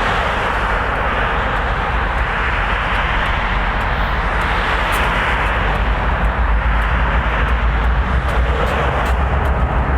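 Freight train rolling past: a steady noise of wheels on rail over a low hum that grows stronger after about six seconds, with faint sharp clicks throughout.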